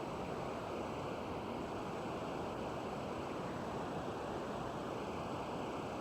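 Steady, even rushing noise with no distinct events, and a faint high steady whine above it.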